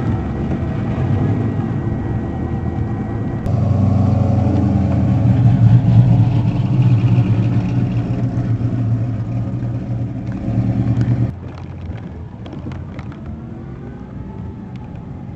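Car engine and road noise heard from inside a moving vehicle. The engine gets louder about three and a half seconds in, drops off suddenly near eleven seconds, then runs on more quietly with faint rising tones.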